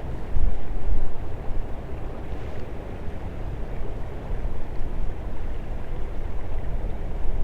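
Wind buffeting the microphone with a low, gusty rumble, over the steady rush of a small creek; the gusts are strongest about half a second to a second in.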